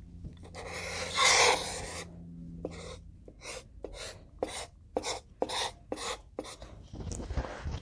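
A pen scratching on paper as a drawing is made: one longer stroke about a second in, then a run of about ten quick short strokes, two or three a second.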